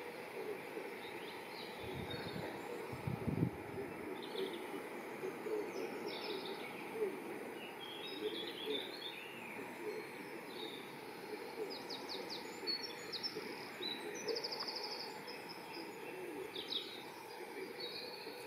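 Small birds chirping and trilling at intervals over a steady outdoor background hum, with a couple of low thuds two to four seconds in.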